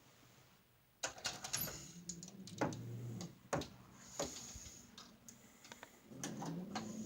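Dog snoring: two long snoring breaths with a low rattle, about a second and a half and six seconds in, broken by sharp clicks.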